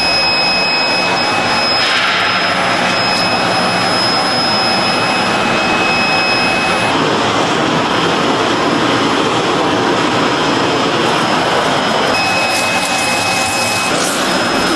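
Steady loud rushing noise of running factory machinery, with a thin high whine that drops out and comes back.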